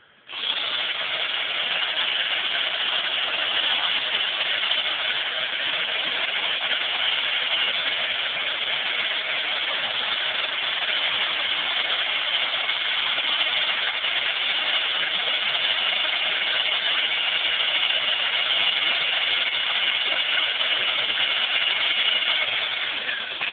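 An 18-volt cordless drill running steadily at full speed, spinning an engine valve while carbon deposits are cleaned off it. It starts abruptly and cuts off abruptly about 23 seconds later.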